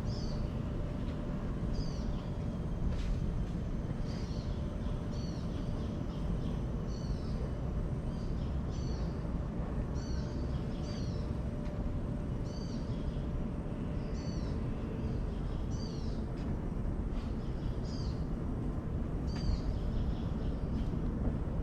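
A bird giving a short, high call about once a second, sometimes two close together, over a steady low rumble.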